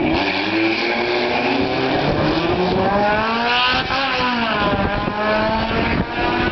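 Car engine at full throttle in a drag race, its pitch climbing steadily, dropping sharply with a gear shift about four seconds in, then climbing again.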